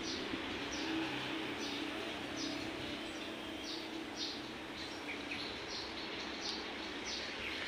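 A bird calling: a short, high, downward-sliding chirp repeated about once every three-quarters of a second, over steady outdoor background noise.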